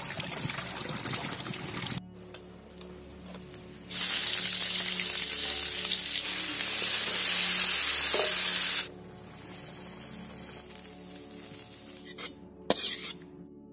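Food frying in hot oil, heard as a loud sizzle lasting about five seconds that starts and cuts off abruptly, with quieter sizzling before and after it.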